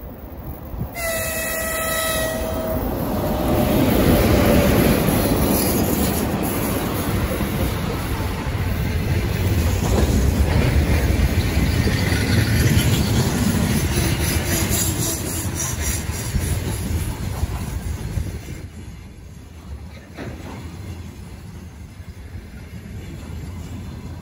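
A train's horn sounds once, about a second in, for roughly two seconds, and then the train passes close by. Its loud, steady rumble of wheels on rails dies down over the last several seconds.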